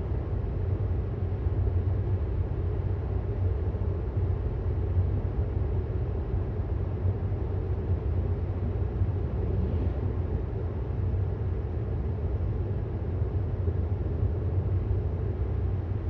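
Steady low road and tyre rumble heard inside the cabin of a 2018 Tesla Model S 75D while it drives, with no engine note since the car is electric.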